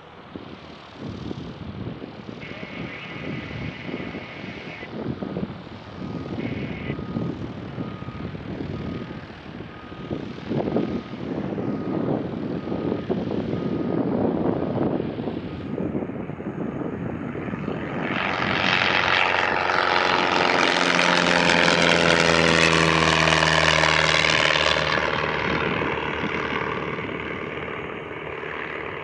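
Wind buffeting the microphone, then a propeller-driven light airplane passes close by: its engine and propeller noise swells over a few seconds, drops in pitch as it goes past, and fades away near the end.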